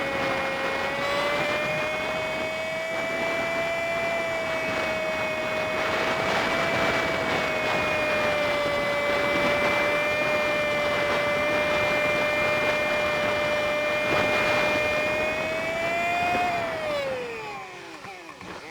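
Honda Super Cub 50's small single-cylinder engine and wind noise, recorded by the bike's dashcam and played back at five times speed, so the engine comes out as a high, steady whine. Near the end the whine drops sharply in pitch and fades as the bike slows, then starts climbing again.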